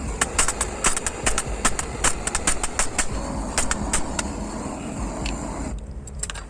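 Hammer blows on the warped metal grate of a folding fire pit, quick irregular strikes about four a second, straightening the bent grate bars. The hammering stops near the end.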